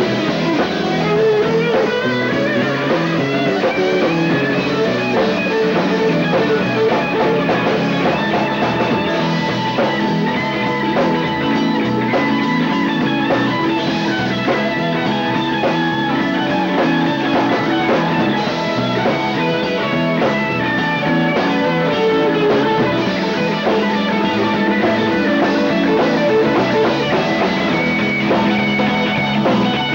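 Live rock band playing an instrumental passage, guitar leading over bass and drum kit, on a lo-fi cassette audience recording.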